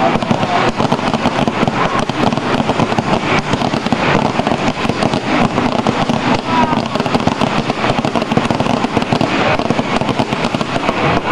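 Fireworks crackling densely: a rapid, unbroken stream of small sharp pops that keeps an even loudness throughout.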